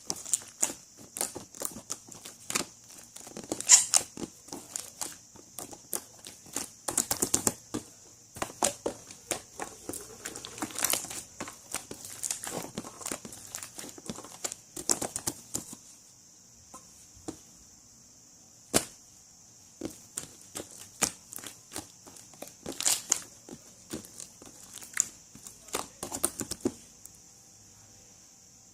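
Irregular crinkling, crackling and sharp clicks, dense at first and sparser in the second half, over a steady high hiss.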